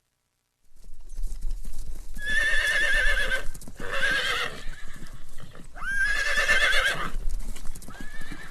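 Horse whinnying twice, each a long wavering high call with a shorter call after it, over the steady clip-clop of hooves. It starts suddenly after a moment of silence.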